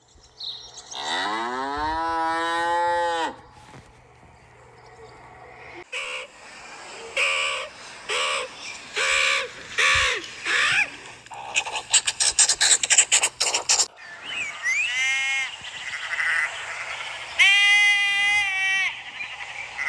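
A succession of different animal calls, one clip after another: a long call that rises in pitch and then holds, a run of short repeated calls, a fast rattling clatter, and shorter high-pitched calls near the end.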